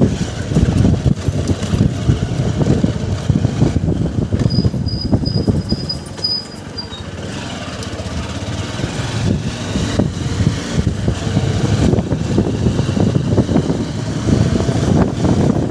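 Riding on a motorcycle: heavy wind buffeting on the microphone over the running engine, easing a little about halfway through and then building again.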